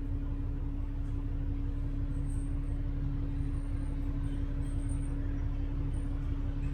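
Double-decker bus running, heard from inside the passenger cabin: a steady low engine and road rumble with a constant hum, and a few faint high squeaks from the bodywork.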